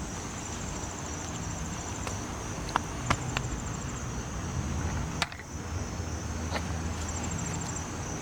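Insects trilling steadily at a high pitch, in pulsed runs, over a low steady rumble. A few sharp clicks from potatoes and soil being handled come about three and five seconds in.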